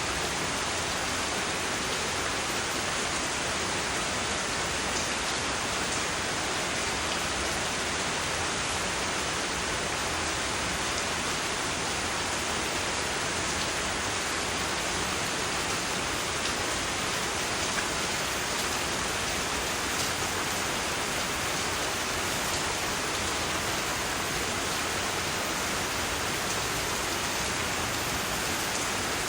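Steady, dense rain hiss played as sleep white noise, even and unchanging, with a few faint drop ticks.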